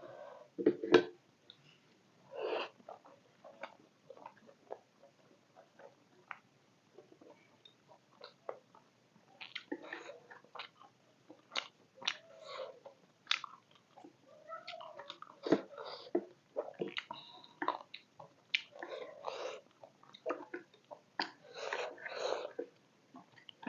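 Close-up chewing and wet mouth sounds of someone eating beef momos (steamed dumplings), short irregular smacks and clicks, with a few sharp clicks about a second in.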